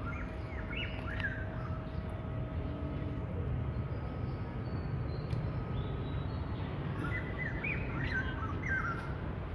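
Small birds chirping in short clusters of quick twittering notes, about a second in and again near the end, over a steady low outdoor rumble.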